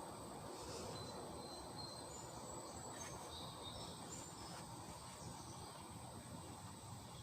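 Faint steady high-pitched insect drone, with a few short, high bird chirps scattered through it.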